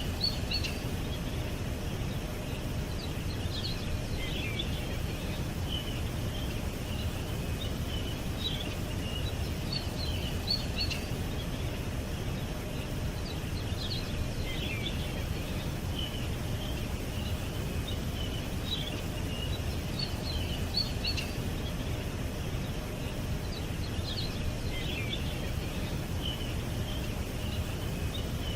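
Small birds chirping in short bursts of quick high notes every few seconds, over a steady low background rumble.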